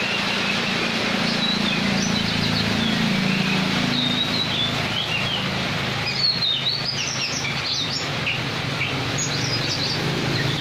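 Steady rain shower falling, an even hiss, with small birds chirping over it again and again.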